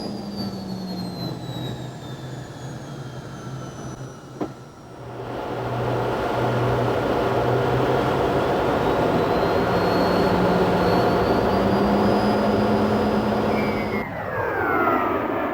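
North American Sabreliner's jet engines during a low display pass: a whine falling in pitch at first, a single click about four seconds in, then the jet noise swells and holds loud. Near the end the sound changes abruptly and fresh whine tones sweep down in pitch as the jet passes.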